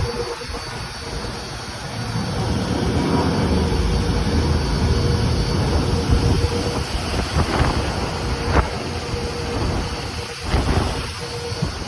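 Cooling tower running: a steady low rumble from the fan and a rushing, rain-like sound of falling water, with a faint steady hum over it.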